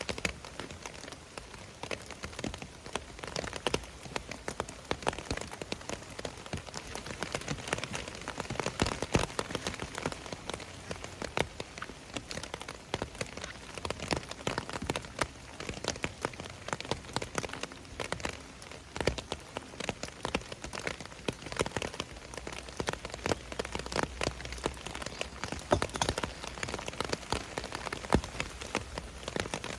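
Steady rain, with many separate drops ticking irregularly on a nearby surface over a constant hiss.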